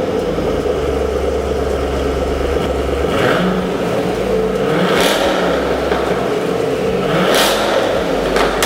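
Chevrolet Silverado pickup's engine running after being brought back to life, revved up in three short surges about 3, 5 and 7.5 seconds in.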